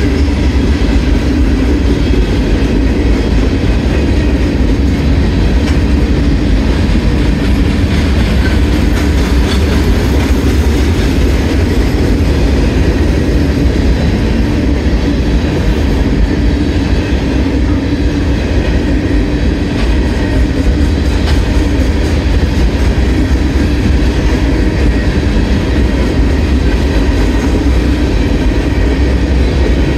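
Loaded coal hopper cars of a CSX freight train rolling past steadily, their wheels running on the rails in a continuous loud rumble and clatter.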